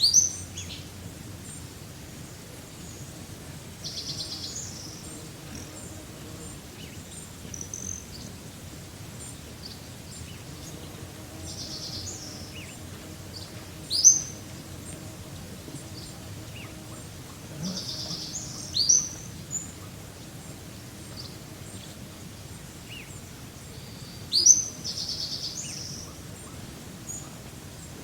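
Songbirds calling over a steady faint background hiss: a few sharp rising whistled notes at intervals of several seconds, with short buzzy high-pitched trills in between.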